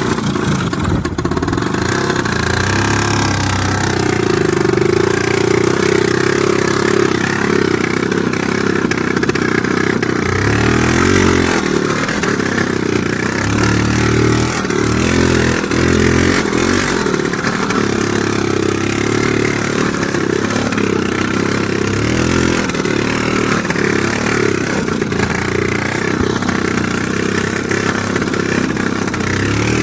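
IZh Planeta 3 motorcycle's single-cylinder two-stroke engine running continuously while ridden, its pitch rising and falling again and again as the throttle is opened and eased.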